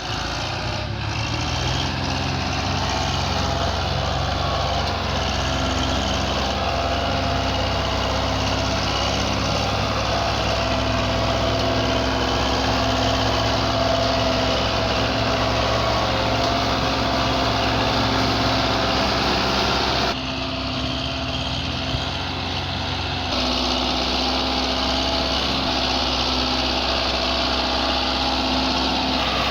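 Belarus 510 tractor's diesel engine running steadily. About twenty seconds in it briefly drops in level, and a few seconds later its tone shifts.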